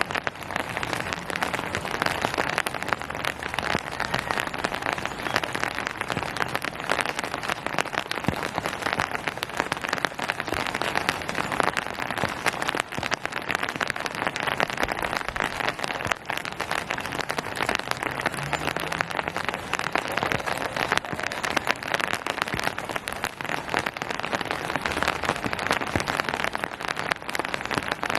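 Steady rain falling on surfaces, a dense, even patter of many drops.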